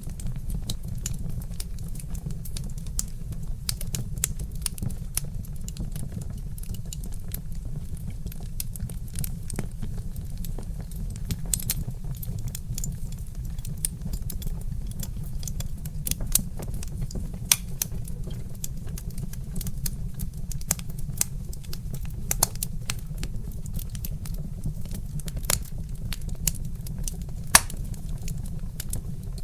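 Wood fire crackling: many sharp, irregular pops and snaps over a steady low rumble, with a few louder pops in the second half.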